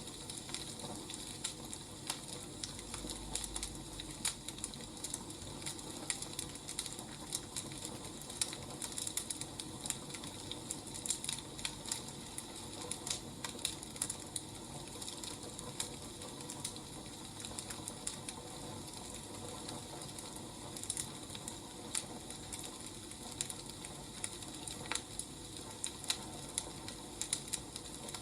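Burning firewood crackling: a steady soft hiss with frequent, irregular small sharp crackles.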